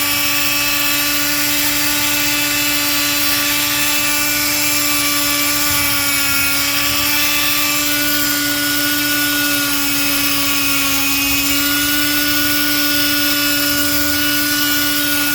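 Power tool raking out old mortar joints, running with a steady high whine that dips slightly in pitch twice.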